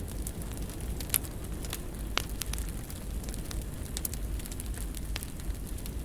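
Wood fire crackling over a steady low rumble, with scattered pops; the sharpest snaps come about one and two seconds in.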